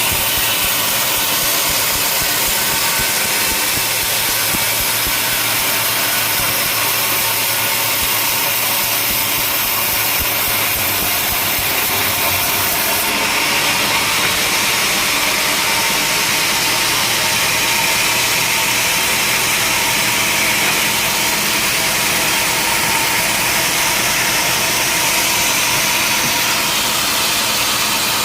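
Sawmill machinery running steadily, a dense mechanical noise; its high-pitched edge changes about halfway through.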